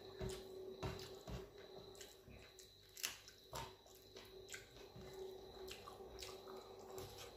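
Faint wet chewing and mouth smacks of someone eating dal and rice by hand, with squishing as fingers mix the rice into the dal on a steel plate. Short clicks come several times a second, the loudest about three seconds in.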